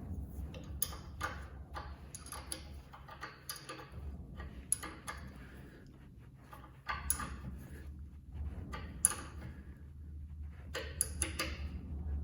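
Irregular light clicks and knocks of small metal and plastic parts being handled during work on an angle grinder, over a low steady hum; the sharpest click comes about nine seconds in.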